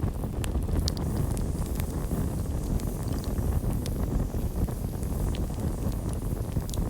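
Campfire burning, a steady low rushing noise with scattered sharp crackles and pops from the burning wood.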